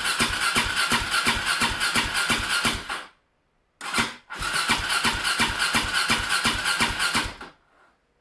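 Electric starter cranking the KTM Duke 620's LC4 single-cylinder engine on a cold start: a steady starter whine with even compression beats, about four a second, in two cranking attempts of about three seconds each, with a short blip between them. The engine does not catch.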